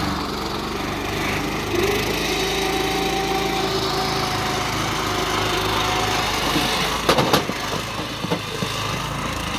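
Power tiller's small engine running steadily as it moves with its trolley, with a short cluster of sharp knocks and rattles about seven seconds in and a couple more a second later.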